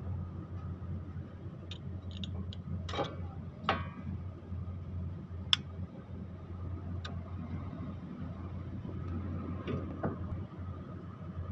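A machine hums steadily, with a few sharp metallic clicks and taps scattered through it, the loudest about five and a half seconds in.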